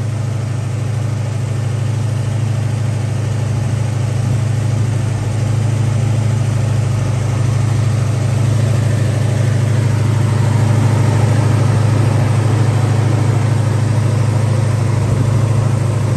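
Car engine idling steadily, a strong low hum that slowly gets a little louder, with the air-conditioning system running.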